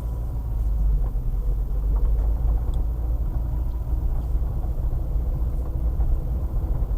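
Car on the move, heard from inside the cabin: a steady low engine and road rumble that grows slightly louder about a second in.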